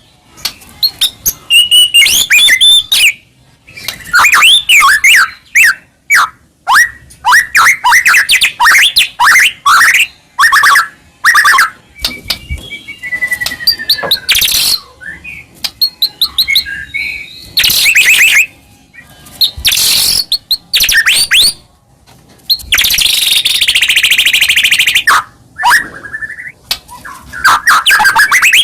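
White-rumped shama (murai batu) in full loud song: a long run of varied whistled phrases, fast trills and sharp chattering notes, broken by short pauses. A harsh, buzzing phrase comes about two-thirds of the way through.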